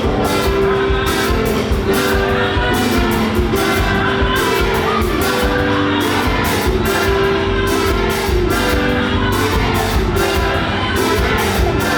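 Fast live gospel praise music from a band in a large hall, with a quick steady drum beat under held keyboard or bass notes, singing, and shouts from the crowd.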